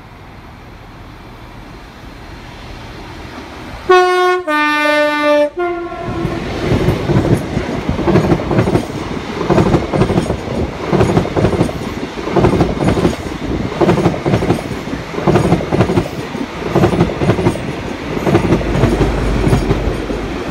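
InterCity 125 HST led by a Class 43 power car approaching and sounding its two-tone horn about four seconds in: a high note, a longer low note, then a short high note. The coaches then pass close by with a steady rhythmic clatter of wheels on the rails, and a low rumble from the rear power car comes in near the end.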